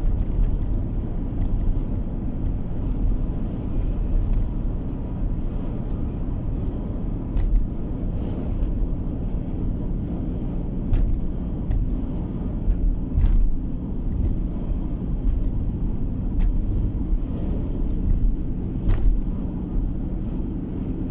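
Steady low rumble of a car driving, engine and tyre noise heard from inside the cabin, with a few short clicks here and there.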